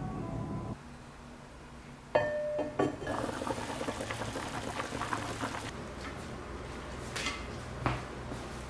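Music stops, then a ceramic clink rings out, followed by liquid being poured into a vessel for a couple of seconds and a few light knocks near the end.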